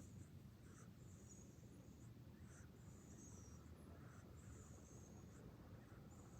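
A dog breathing faintly while drifting off to sleep, each breath carrying a thin high-pitched whistle: a short squeak and then a longer one, repeating about every one and a half to two seconds.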